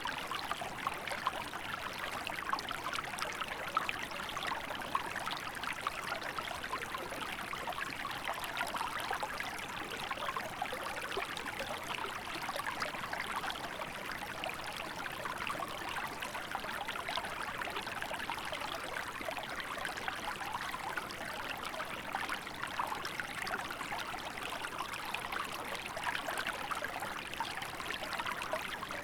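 A small river running steadily in winter, water babbling and trickling over rocks in a continuous splashing rush.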